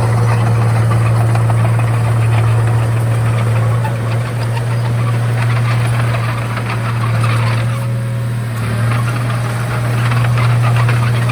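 Bulldozer's diesel engine running at a steady pitch, with a fast rattle over it.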